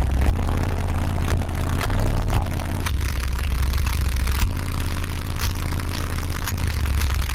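Car subwoofers playing very loud, deep bass, the low note shifting every second or two, with scattered sharp clicks and rattles over it.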